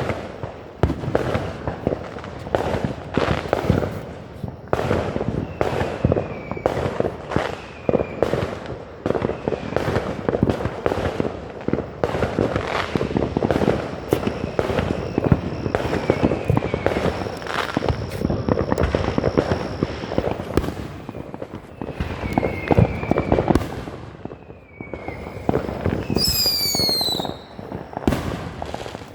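Consumer fireworks crackling and popping without a break, with short falling whistles now and then and a few loud descending whistles near the end.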